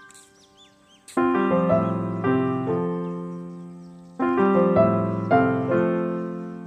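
Background piano music: groups of notes struck about a second in and again about four seconds in, each left to ring and fade.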